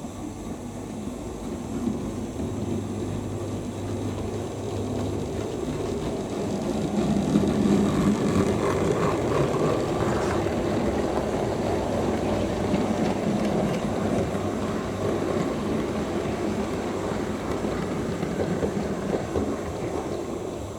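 OO gauge model train running on the layout track: a steady rumble that grows louder about seven seconds in and then holds.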